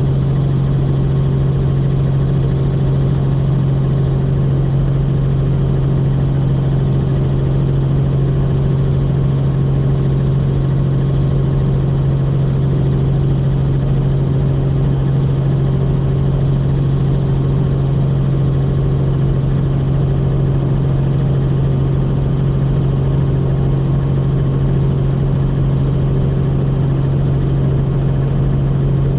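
Helicopter in flight: a loud, steady drone of engine and rotors with a strong low hum that holds unchanged throughout.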